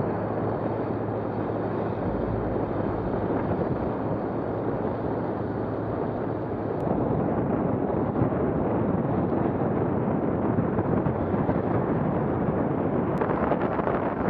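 Steady rushing wind noise on the microphone with a vehicle engine running underneath, a little louder about halfway through.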